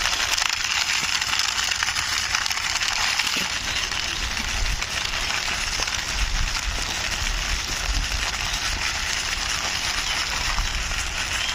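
Small plastic toy jeep pushed by hand over a rough surface: a steady gritty rolling and scraping of its little wheels, with some low rumble from handling.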